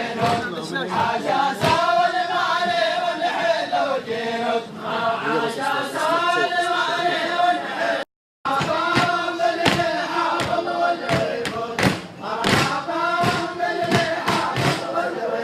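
A group of voices chanting a folk song together in long, rising and falling phrases, over sharp percussive beats. The sound breaks off for a moment about eight seconds in.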